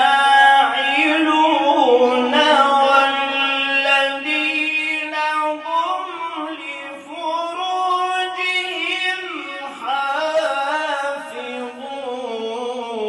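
A single voice singing an unaccompanied Arabic lament for Imam Hussein, in long held notes that waver and slide in pitch with melismatic ornaments.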